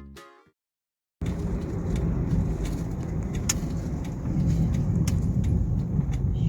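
A music sting ends, and after a second of silence a steady low rumble of a car on the move begins, with a few faint clicks.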